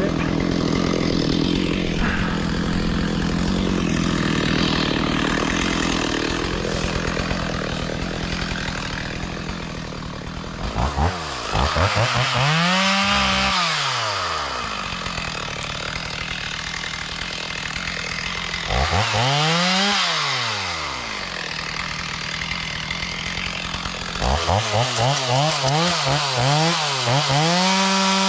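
Chainsaw running steady for about ten seconds, then revved up and let back down twice, and near the end given a quick run of short revs.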